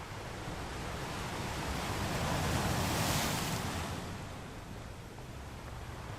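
Ocean waves breaking on a beach: one wave builds, breaks with a rush of hiss about halfway through, then washes back and fades.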